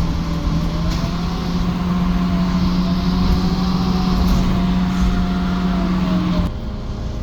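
Menarinibus Citymood 12 CNG city bus running, with a strong steady low hum, a higher tone that slowly wavers up and down, and a hiss. About six and a half seconds in, the hum and hiss cut off suddenly.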